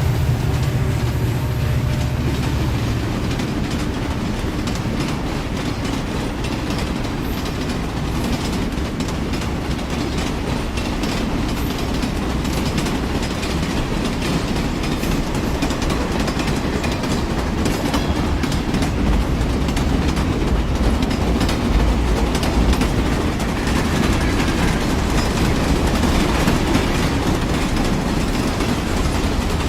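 A train running on the track: a steady low rumble with the clickety-clack of its wheels over the rail joints.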